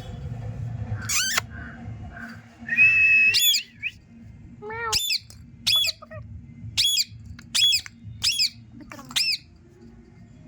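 Pet parrot giving a series of short, sharp squawking calls, about one a second, with a brief held whistle near the start.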